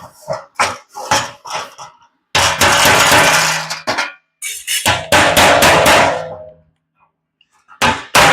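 Hammer striking an aluminum sheet-metal visor panel to straighten and line up a tack-welded seam: a few separate knocks, then two long stretches of rapid heavy blows with the metal ringing, and fast evenly spaced blows again near the end.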